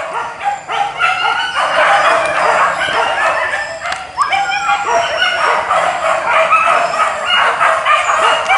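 A pack of boar-hunting dogs yelping and barking, many voices overlapping without a break.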